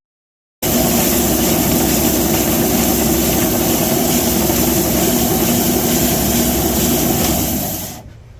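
Belt sander running steadily, a loud even machine noise with a steady hum, dying away near the end as it is shut off.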